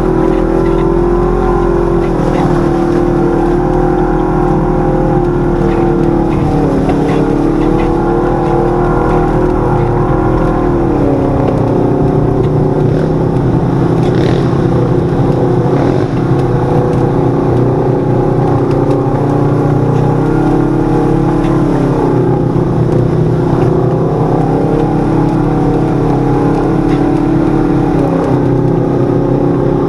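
Side-by-side UTV engine running steadily on a trail ride. Its pitch drops and climbs back several times as the throttle eases and opens.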